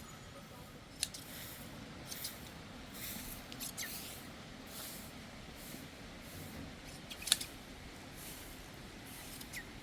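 Hand shears snipping through a sheep's fleece: irregular sharp snips, one louder near the middle.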